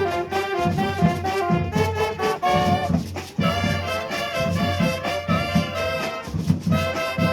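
Carnival street band (bloco) playing an instrumental passage: brass horns, trombones and trumpets, carry the melody over a steady beat of drums, with a short break about three seconds in.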